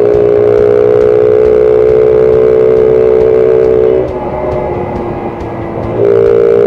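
Small single-cylinder motorcycle engine held at a steady high speed for about four seconds, dropping back to a lower speed, then held high again briefly near the end.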